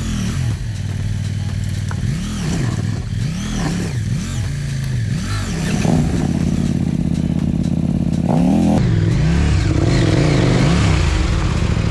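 Dual-sport motorcycle engine under riding load, revving up and down over and over, its pitch rising and falling about once a second, with light clattering from the bike. The engine steps up louder about two-thirds of the way through.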